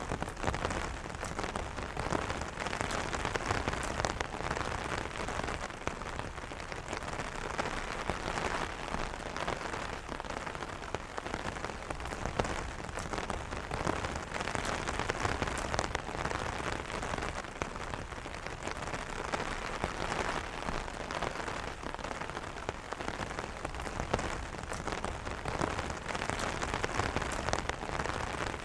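Steady rain pattering on an umbrella canopy, a dense, even wash of many small drop ticks.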